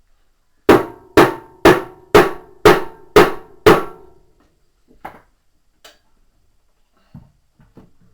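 Seven evenly spaced hammer blows on a metal part of a washing machine, about two a second, each ringing briefly, followed by a few lighter knocks.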